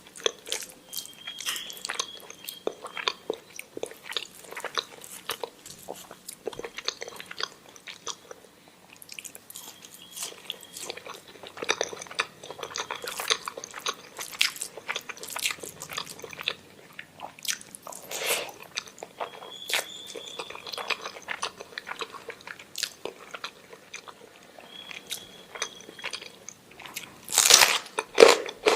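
Close-miked eating sounds: a person chewing and biting food, with irregular wet clicks and smacks of the mouth and a louder burst near the end.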